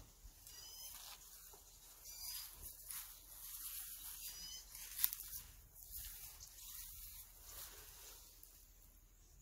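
Quiet outdoor ambience: a bird gives a short call three times, about two seconds apart, over a faint high hiss, with a single sharp click about five seconds in.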